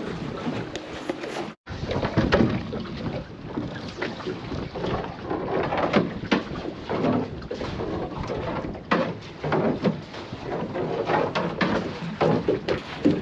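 Water slapping and knocking against the hull of a small boat, an uneven run of slaps and knocks over a rough wash of sea and wind noise. The sound drops out for a moment about a second and a half in.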